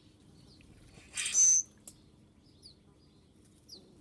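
Birds calling: one loud, harsh call about a second in, then a few faint, short downward-sliding chirps.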